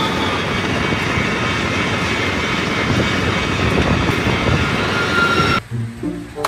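Electric passenger train passing close by: a steady, loud rush of wheels on rails. About five and a half seconds in, it cuts off abruptly into music.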